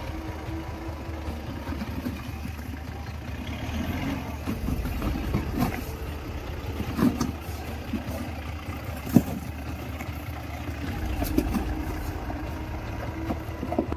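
Mahindra Bolero's engine running steadily at low revs, with scattered sharp knocks over it, the loudest about nine seconds in.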